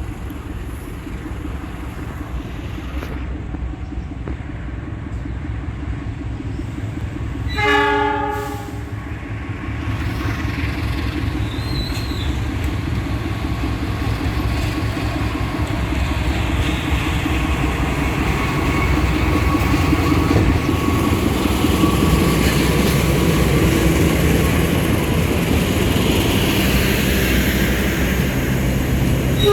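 Train horn sounding once for about a second around eight seconds in and again at the very end, over the steady rumble of the Argo Bromo Anggrek train that grows louder as it approaches.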